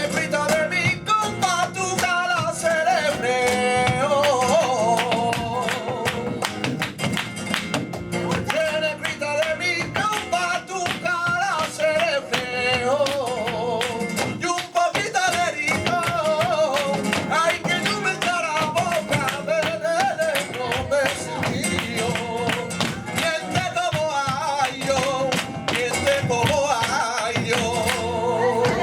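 Live flamenco tangos: a male cantaor singing with a wavering, ornamented line over flamenco guitar, with sharp percussive strikes running throughout.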